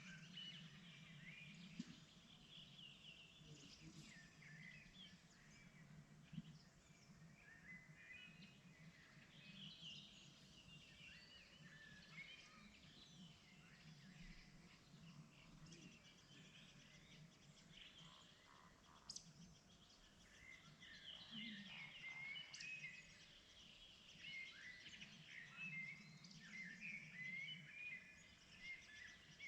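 Faint spring birdsong: several birds chirping and trilling in quick, overlapping phrases, over a steady low background rumble.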